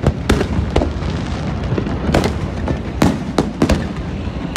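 Aerial fireworks bursting in quick succession over a continuous low rumble, with several sharp bangs in clusters.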